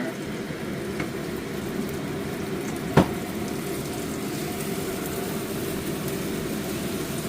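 Bananas sizzling steadily as they caramelize in a frying pan, with one sharp knock about three seconds in.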